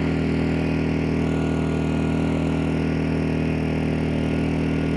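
Wen 1250 inverter generator running at a steady pitch, a constant even hum.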